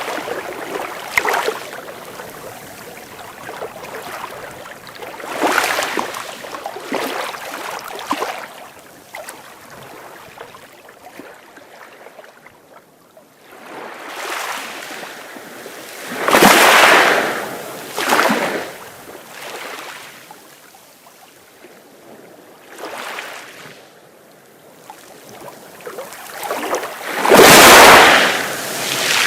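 Sea waves breaking and washing up the shore in uneven rushes every few seconds, with quieter lulls between them; the biggest wave comes near the end.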